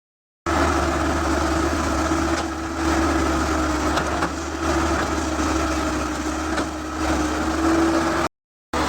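Excavator engine running steadily with a constant whine over a low hum. It starts about half a second in and drops out briefly near the end.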